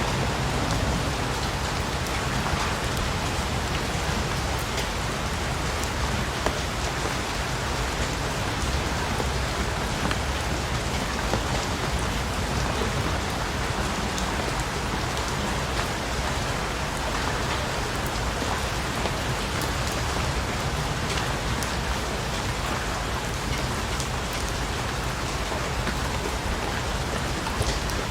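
Steady rain falling, a continuous even patter with scattered drop ticks.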